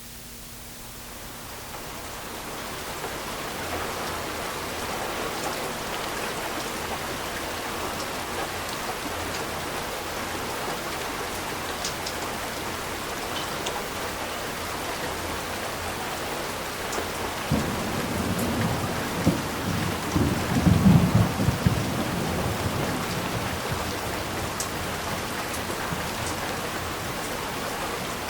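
Steady rain fading in over the first few seconds, with a rumble of thunder rolling through about two-thirds of the way in, then steady rain again.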